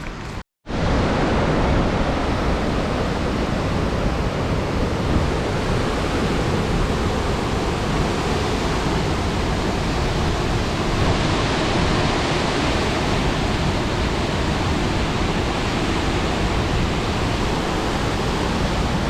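Steady rushing of a waterfall close by, a loud even wash of falling water. It begins after a brief break to silence about half a second in.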